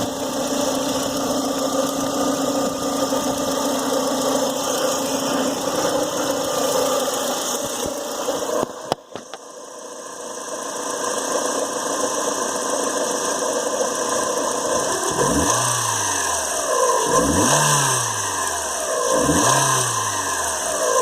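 Renault Clio Sport 172's 2.0-litre four-cylinder engine running at idle, then revved in four quick throttle blips, each rising and falling, in the second half. It is revved to show a knocking noise around 3,000 rpm, which the owner thinks is most likely worn bearings, or else a failed lifter.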